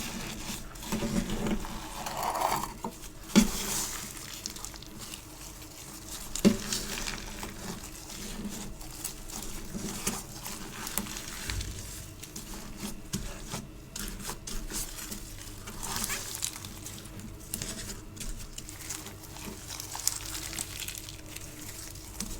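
Hands squeezing and pulling a sticky clay-like material, giving a dense fine crackling and ticking, with two sharper taps about three and six and a half seconds in.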